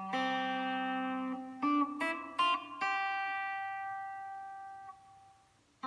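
Outro music: a solo plucked guitar playing a few ringing notes and chords, the last one dying away.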